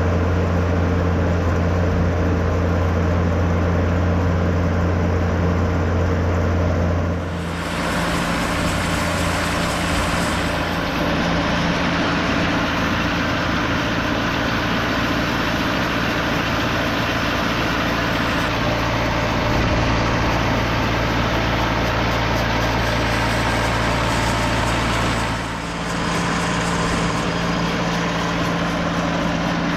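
An engine running steadily. About seven seconds in the sound turns harsher and noisier, and about eighteen seconds later it drops back to the steadier, lower hum.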